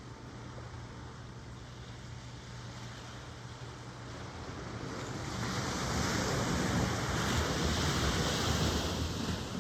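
Ocean surf. A wave builds from about four seconds in, washes loudly through the second half, then drops away near the end.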